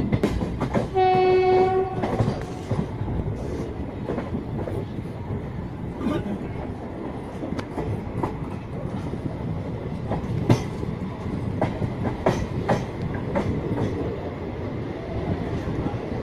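Passenger train running at speed, wheels clicking irregularly over the rail joints, with one short blast of the electric locomotive's horn about a second in.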